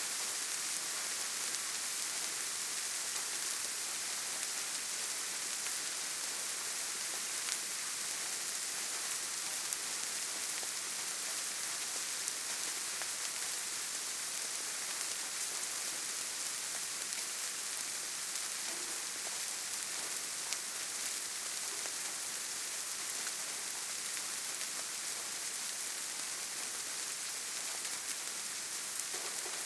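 Steady rainfall: an even hiss of rain with scattered individual drops pattering.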